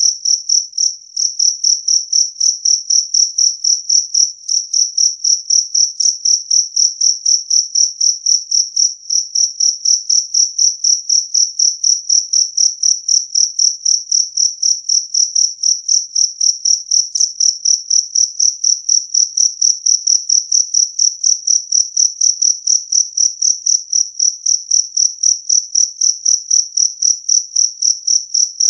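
Jangkrik kalung (two-spotted field cricket) chirping loud and clear: a high, pure trill repeated in even pulses, about three chirps a second.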